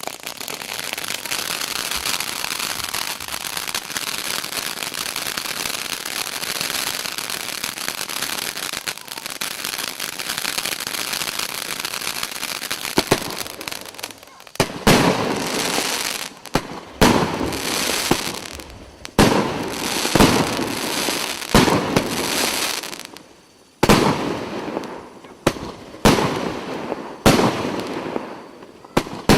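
Consumer fireworks battery (cake) firing: a dense continuous crackling hiss for the first half, then from about halfway a run of sharp bangs about once a second, each trailing off in crackle, with brief pauses between groups.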